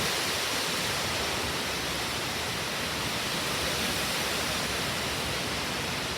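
Steady rushing of strong wind as a thunderstorm's gust front arrives with its cold outflow air, an even hiss with no breaks.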